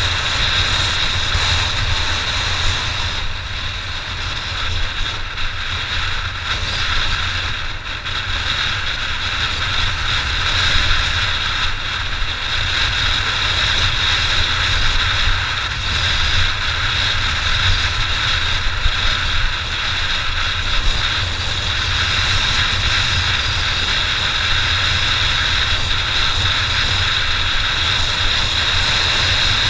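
Honda XR600's single-cylinder four-stroke engine running steadily as the motorcycle is ridden, with wind noise buffeting the microphone.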